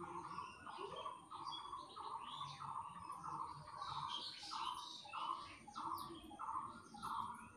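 Birds calling: one bird repeats a short note at an even pace, about one and a half times a second, while other birds chirp higher over it.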